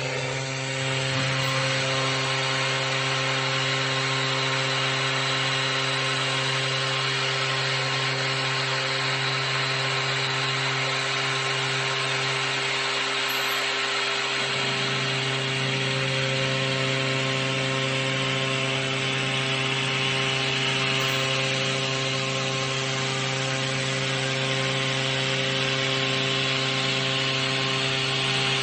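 Tomahawk Pro CNC machine cutting a plate: the spindle runs at a steady pitch while the cutter works through the material without a break.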